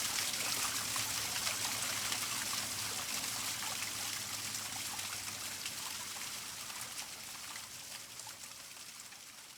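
Waterfall splashing and trickling in a steady rush of water, slowly fading out.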